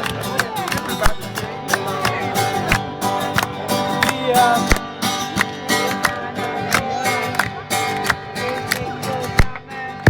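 Acoustic guitar played live, strummed and picked in a quick run of string attacks over ringing notes.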